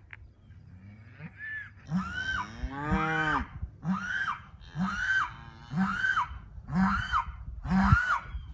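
Newly weaned Hereford calves bawling for their mothers after separation. The calls start about two seconds in and come about once a second, each one rising and then falling in pitch.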